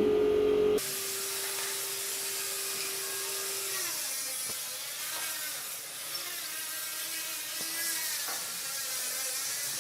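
Handheld power tool working wood: a loud steady hum cuts off abruptly under a second in, then a steady high hiss runs on with a faint motor tone that drops away about four seconds in.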